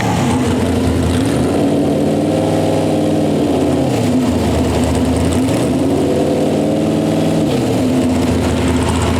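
Pulling tractor's engine running hard, its revs dropping and climbing again about three times, each swing lasting a couple of seconds. The commentator takes the rev pattern for a CVT or automatic-type transmission rather than a clutch-and-gear setup.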